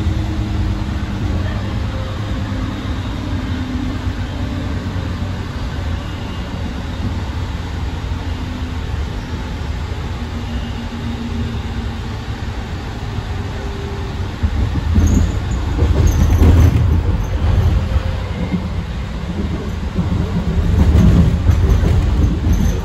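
AirTrain JFK people-mover car running along the track, heard from inside: a steady low rumble and hum of wheels and running gear. It grows louder for a couple of seconds past the middle and again near the end, with a faint high wheel squeal in the first loud stretch.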